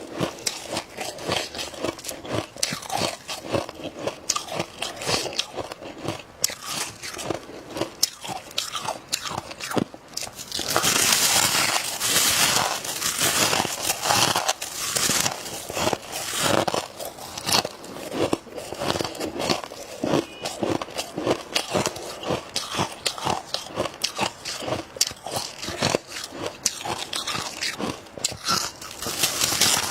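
A person biting and chewing dry freezer frost in dense, rapid crunches, growing louder and crisper from about eleven seconds in.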